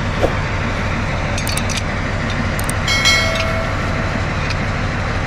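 TU7A narrow-gauge diesel locomotive idling steadily with a low, even engine rumble. Metal tools clink a few times, and about three seconds in a piece of metal rings out briefly after being struck.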